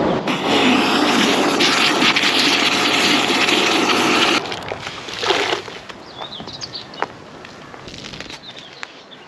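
A detailing machine runs with a loud, steady hiss over a motor hum, then cuts off suddenly about four seconds in. Birds chirp faintly after it stops.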